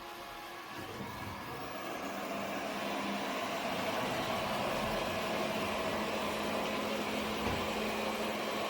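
Airzeen R7 robot vacuum running: its motor spins up with a faint rising whine over the first few seconds, then holds a steady whir.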